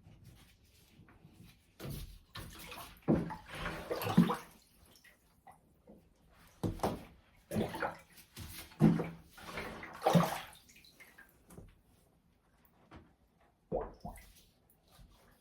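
Water sloshing and splashing in a bathtub in several irregular bursts, with quieter gaps between, as a clogged tub drain is being worked on.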